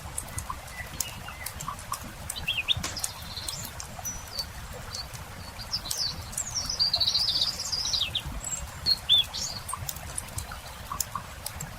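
Campfire crackling with scattered sharp pops, while a small songbird chirps from about two seconds in, sings a longer warbling phrase around the middle, and gives a couple of loud short calls near the end.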